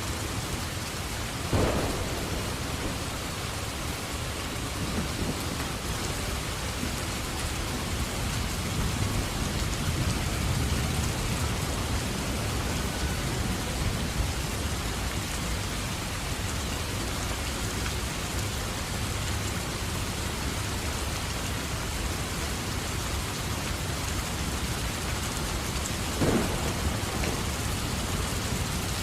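Steady rain falling through a thunderstorm. A sharp thunderclap comes about a second and a half in, a low rumble of thunder builds and fades in the middle, and another clap comes near the end.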